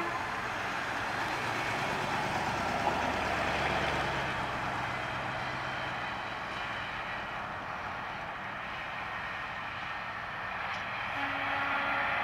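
1965 Ford Mustang's 289 V8 running as the car drives past and away, its low engine note fading out within the first half as it moves off.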